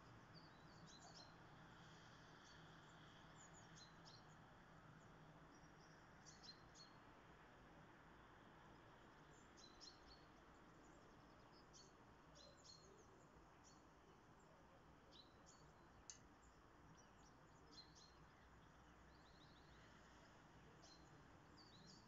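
Faint, scattered short chirps and calls of small songbirds, some coming in quick little runs, over a steady low background hum.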